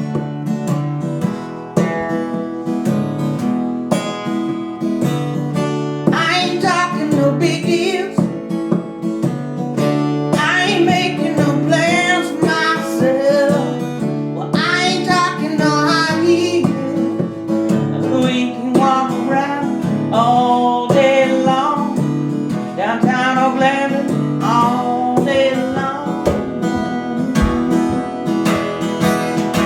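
Acoustic guitar strummed steadily in a song's instrumental passage, with a wavering melody line over it from about six seconds in.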